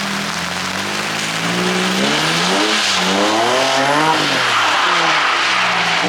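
A car engine revving up and down repeatedly while it is driven in a drift, its pitch rising and falling every half second or so, over a steady hiss of tyres and spray on a wet surface.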